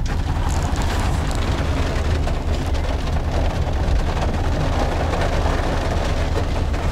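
Heavy rain pouring down in a downpour: a steady dense hiss of drops with a continuous low rumble underneath.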